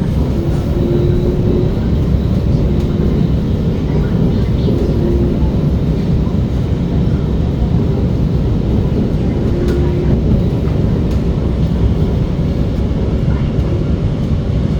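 Steady rumble of an SMRT R151 metro train running along the track, heard from inside the car, with a faint tone that comes and goes.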